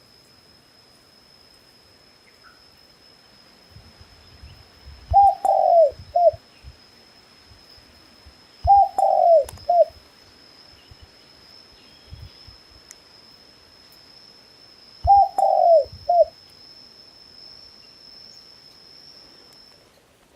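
A dove cooing: three separate phrases of about three short, falling coo notes each, about five, nine and fifteen seconds in.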